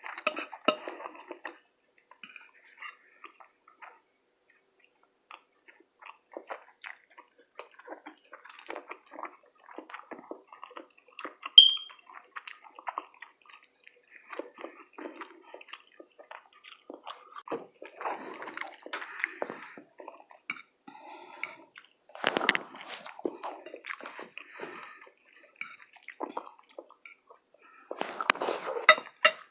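Close-miked chewing and mouth noises of a person eating fish, grits and toast, in irregular short clicks and smacks, with one sharp ringing click about twelve seconds in.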